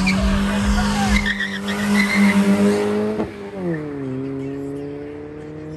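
A performance car's engine held at high revs while its tyres squeal. A little over three seconds in the engine note drops sharply and then climbs slowly again, as on an upshift under hard acceleration.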